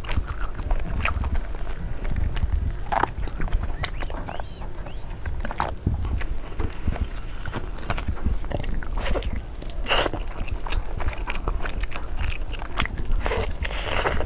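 Close-miked eating sounds: irregular biting, chewing and crunching with sharper wet smacks and crackles every second or so, the strongest about 3, 6, 10 and 13 seconds in.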